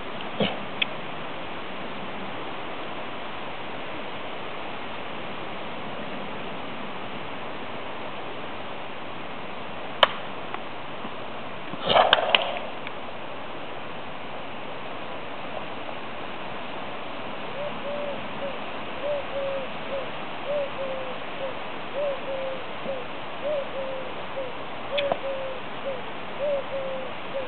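A steady hiss with a few sharp clicks and a short louder noise about twelve seconds in. From about two-thirds of the way through, a bird calls over and over with short, low notes, about one and a half a second.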